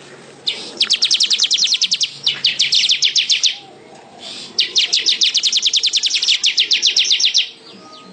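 Manyar (weaver bird) singing in two long rapid chattering trills of about ten sharp high ticks a second, each lasting about three seconds, with a short pause between them.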